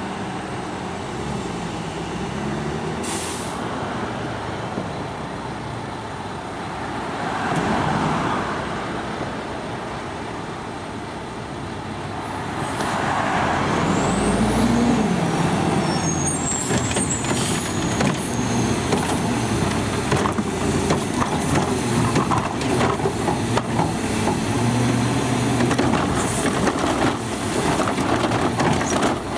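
Garbage truck working a pickup: the diesel engine runs and revs up twice, with a short hiss of air brakes early on. From about halfway through come repeated knocks and clanks of a container being handled and dumped.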